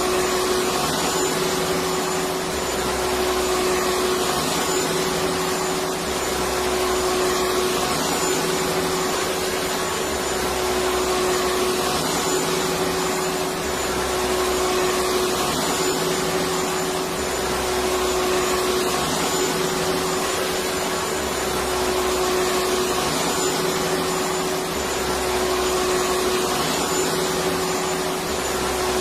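Electric vacuum cleaner running steadily: an even rush of air with a constant motor hum at one pitch.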